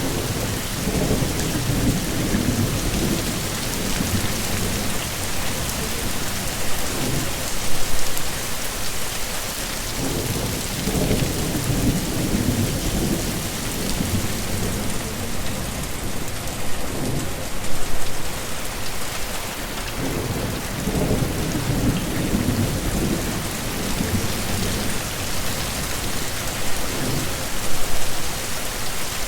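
Heavy rain falling steadily, with low thunder rumbling several times, each rumble lasting a few seconds. Three brief louder moments come roughly ten seconds apart.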